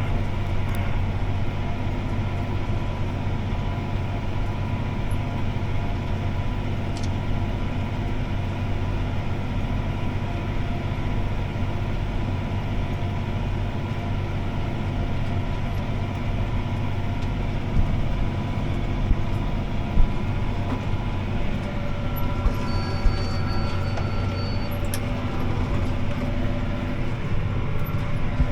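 CLAAS ARION 650 tractor's six-cylinder diesel engine running steadily under load while pulling a disc harrow, heard from inside the cab. A few short knocks and rattles come in the last third.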